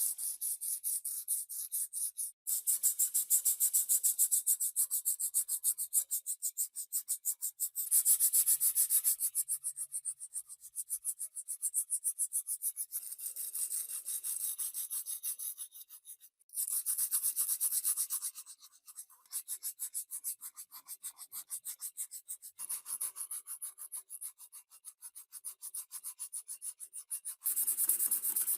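Rust being rubbed off a metal fan part by hand with an abrasive: quick back-and-forth scraping strokes, several a second, with a hissing edge. The strokes stop briefly twice and then carry on.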